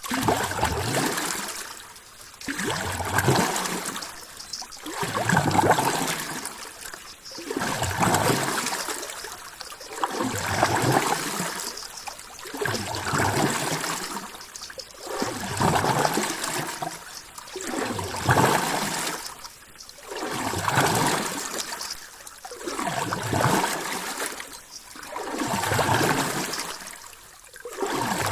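Rushing, trickling water that swells and ebbs in a regular rhythm, about one surge every two and a half seconds.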